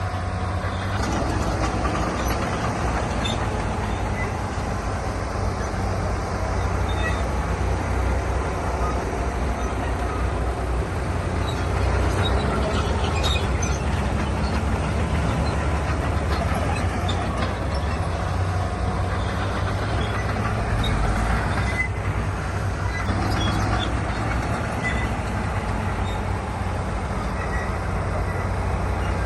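Heavy diesel earthmoving machinery running steadily under load, with scattered metallic clanks and scraping.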